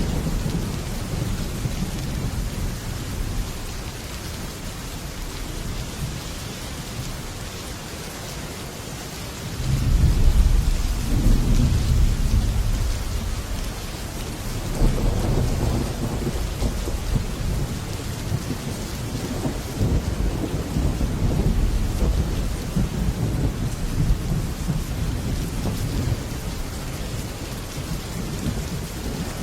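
Heavy rain falling on a metal roof, with thunder rumbling low throughout; a loud roll of thunder swells up about a third of the way in, and another a few seconds later.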